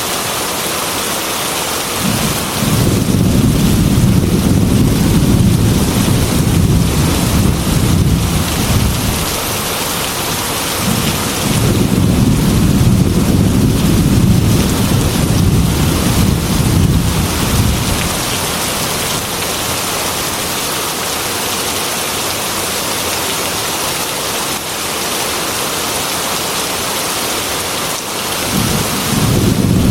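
Heavy rain pattering against a glass window, a steady hiss, with low rolling thunder rumbling for several seconds twice and building again near the end.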